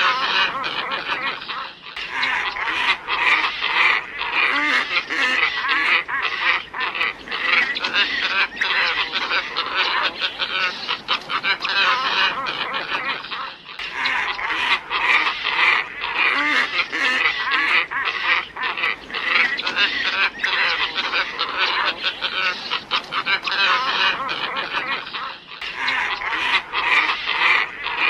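A flock of glossy ibises calling, many overlapping calls at once, played as a recorded lure call. The recording loops, breaking off and restarting sharply about every twelve seconds.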